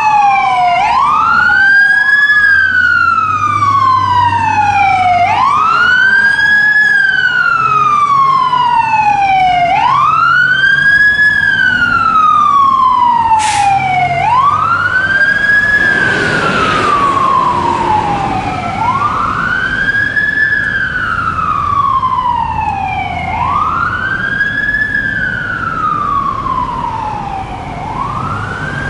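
Fire apparatus siren on a repeating wail. Each cycle rises quickly and falls slowly, about every four and a half seconds, over low truck engine noise. A short burst of hiss comes about sixteen seconds in.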